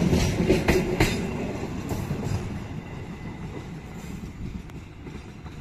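Passenger train coaches rolling past, their wheels clacking on the rails, the sound fading away as the last coach passes and draws off.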